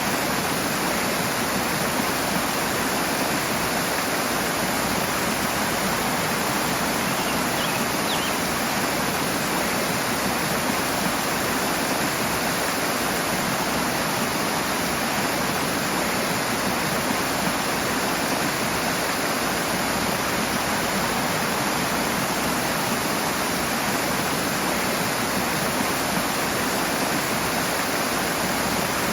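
Fast-flowing water rushing steadily over rocks, a continuous even roar without breaks.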